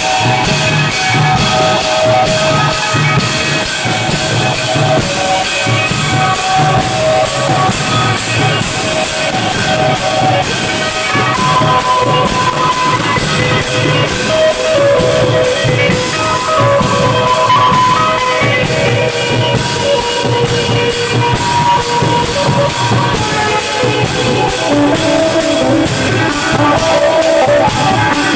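Klong yao long-drum band playing: a steady, driving drum and cymbal beat under a plucked-string melody.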